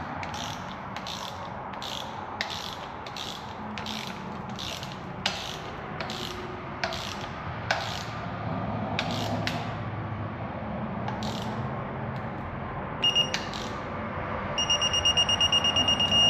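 A ratchet wrench clicking in steady strokes, about two or three clicks a second, as an exhaust manifold bolt is run down and torqued on a 3.5 EcoBoost engine. The clicking stops about ten seconds in. Near the end comes a short high electronic beep, then a fast, steady beeping.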